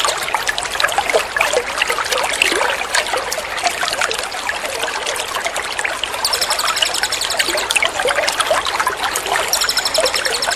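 Water trickling and splashing steadily, played as a water-therapy sound for training songbirds. A small songbird's rapid, high, buzzy trill rides over it twice: about six seconds in, and again near the end.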